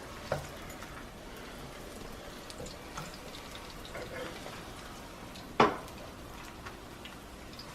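Corn tortillas frying in a pan of oil, a faint steady sizzle, with a sharp knock about five and a half seconds in.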